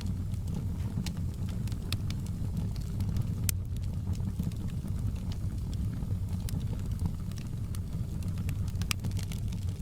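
Wood fire crackling in a fireplace: scattered sharp pops and crackles over a steady low rumble, with one louder pop about three and a half seconds in.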